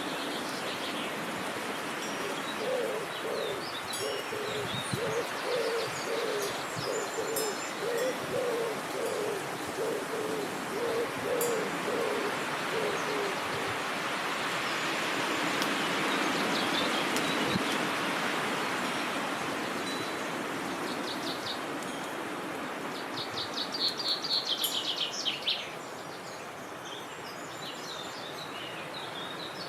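Steady wind noise that swells in the middle, with a bird giving a long run of low hooting notes for about ten seconds. Small birds chirp high above it, and one gives a fast, high trill near the end.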